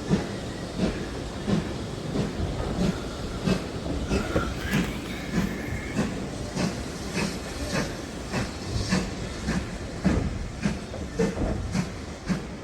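Steam-hauled heritage train running, with a steady rhythmic clatter of wheels over the rails at about one and a half beats a second, under a hiss of steam.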